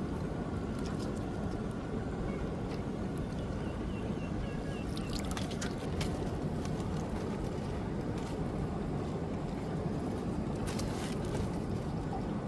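Water sloshing and splashing steadily around a small boat, with scattered sharp knocks and splashes.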